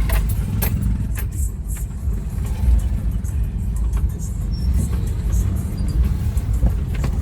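Steady low rumble of a moving vehicle's engine and road noise, with a few light rattles in the first couple of seconds.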